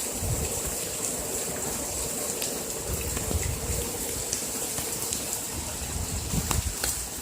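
Heavy rain pouring down with water gushing, a steady rushing hiss dotted with sharp ticks of drops. Low buffets of wind on the microphone come about a second in and again near the end.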